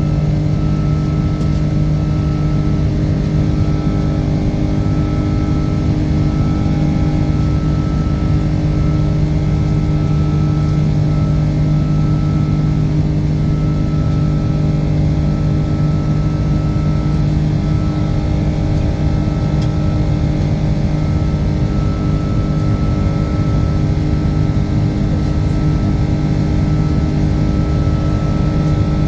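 Airbus A330-200 cabin noise from the Rolls-Royce Trent 700 turbofan engines during departure: a steady rushing roar with a few constant droning and whining tones, unchanging throughout.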